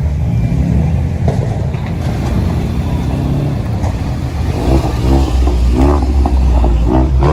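Modified car's engine rumbling and revving, growing stronger about halfway through.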